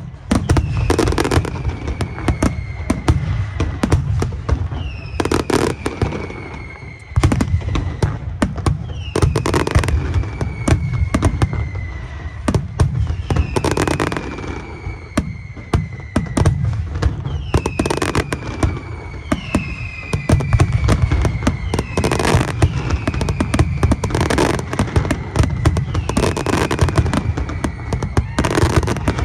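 Fireworks display: a dense run of bangs and crackles, with a high whistle falling in pitch about every two seconds.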